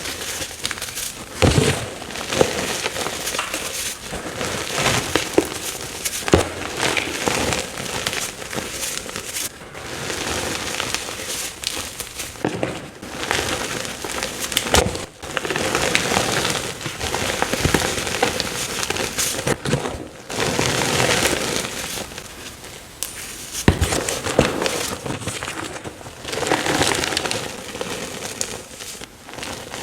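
Fresh chalk blocks being crunched and crumbled, a continuous run of crisp crackling crunches with sharp snaps and short pauses between bites.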